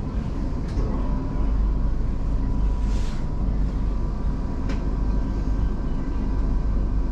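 Steady low rumble of a moving passenger train heard from inside the carriage, with a faint steady whine and a few brief high ticks from the wheels and rails.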